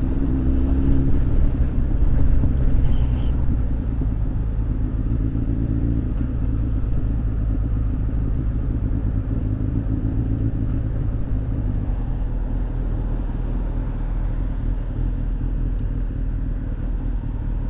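Honda X4 motorcycle's inline-four engine running while riding, with a steady low rumble; the engine note swells and eases a few times with the throttle.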